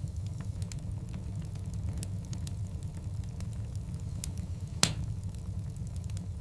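Wood fire burning: a steady low rumble with scattered sharp crackles of burning logs, and one loud pop a little before five seconds in.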